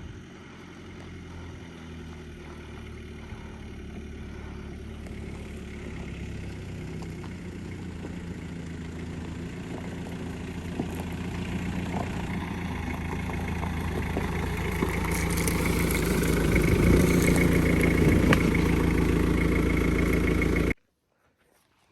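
Dodge Raider's engine idling steadily, growing gradually louder over most of the stretch, then cut off abruptly near the end.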